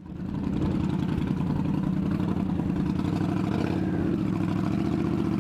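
Motorcycle engine idling steadily, starting abruptly.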